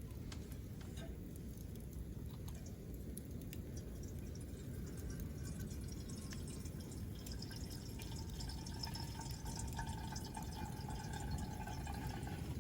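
Campfire burning, with a low steady rumble and scattered sharp crackles and pops from the burning wood. About halfway through, a faint thin whistling tone joins in and holds.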